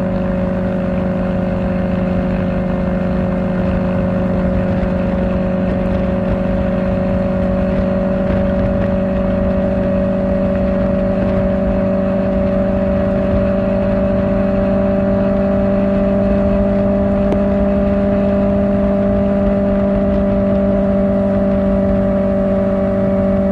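Kawasaki Ninja ZX-4R's inline-four engine through an Akrapovic exhaust, running at a steady cruising speed; the engine note holds almost constant, edging slightly higher in pitch over the stretch, over a low rush of wind and road noise.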